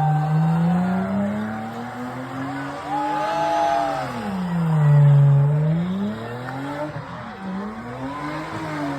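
A car engine revving up and down in long swells, with tyres squealing under wheelspin, as in a burnout or drifting display.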